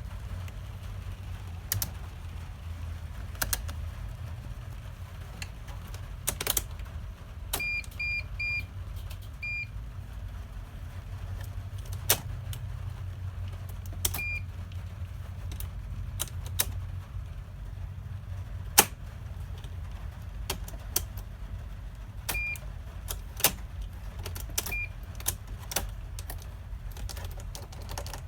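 A vehicle that won't start: repeated sharp clicks and short high electronic beeps, with a quick run of four beeps about eight seconds in and a few single beeps later, over a steady low rumble.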